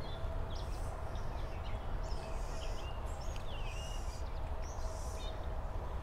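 Songbirds chirping and calling repeatedly in short notes over a steady low rumble.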